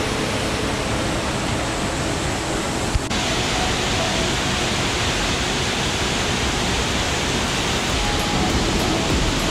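Steady, loud rushing of a waterfall, with one sharp click about three seconds in.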